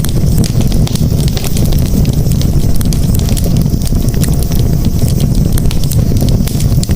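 Campfire burning: a steady low roar with many small, irregular pops and crackles throughout.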